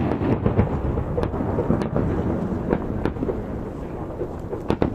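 Aerial fireworks shells bursting in quick succession: a continuous low rumble of booms with several sharp cracks, a pair of them near the end.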